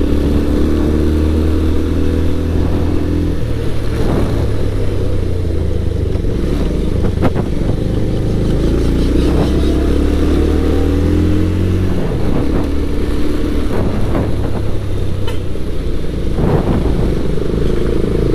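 Motorcycle engine running while riding, a steady note whose pitch steps as the revs change a few seconds in and again about two-thirds through, with a few sharp knocks.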